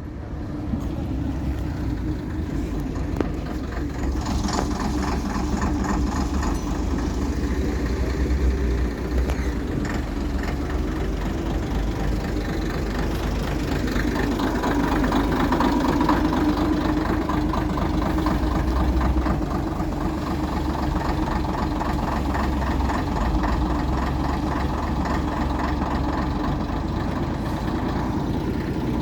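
Diesel bus engine running steadily at idle, with its note swelling for a few seconds about halfway through.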